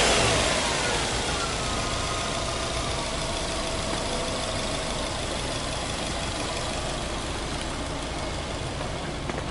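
Subaru Legacy Touring Wagon Blitzen 2006's EJ20 flat-four engine falling back from a rev in the first second, its pitch dropping, then idling steadily.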